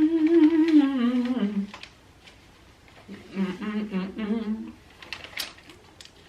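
A woman humming with her mouth closed, in long wavering notes: one phrase that rises and then falls, ending under two seconds in, and a second shorter phrase starting about three seconds in. Faint clicks of eating fill the gaps.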